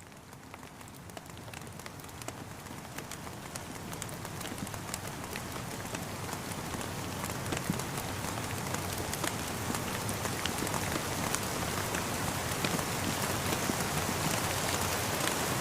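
Rain falling steadily, with many separate drops tapping, fading in and growing steadily louder.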